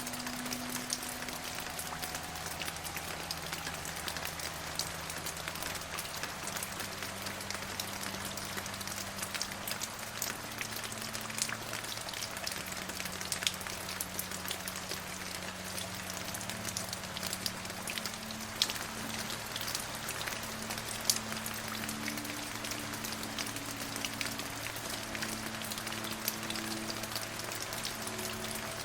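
Steady rain falling, a dense even hiss with distinct drops tapping throughout. Soft, slowly changing held notes of a calm music bed sound underneath.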